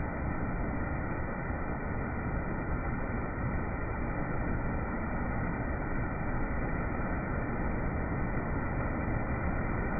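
Waterfall rushing: a steady, even noise with no breaks.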